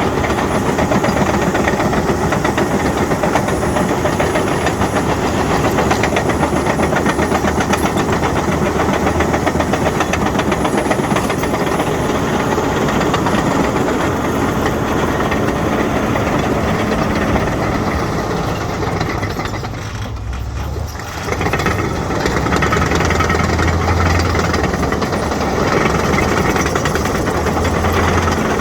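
Caterpillar D6N bulldozer grading: its diesel engine runs under load while the steel tracks clank and rattle continuously. About two-thirds of the way through the sound dips briefly, then the engine pulls harder again.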